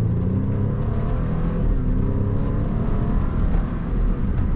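BMW Z4 sDrive28i's turbocharged four-cylinder engine running under way, pulling and rising in pitch as the car accelerates.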